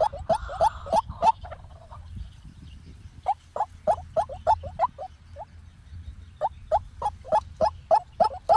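White-breasted waterhen calling: a fast series of short, repeated calls, about three a second, broken by two short pauses, over a faint low hum.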